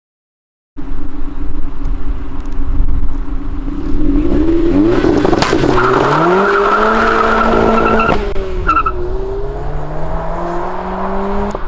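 Turbocharged 1.6-litre Mazda MX-5 four-cylinder being driven hard: the engine note climbs, holds high for about two seconds with a thin whine over it, drops at a gear change, then climbs again.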